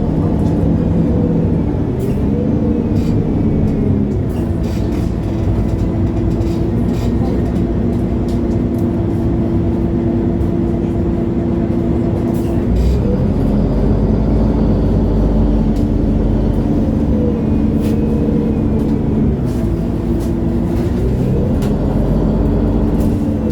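MAN Lion's City G articulated city bus heard from inside, its engine running under way. The engine note rises and then steps to a new pitch a few seconds in, again around halfway, and twice more near the end as the gearbox changes gear. Short rattles and clicks from the body come in between.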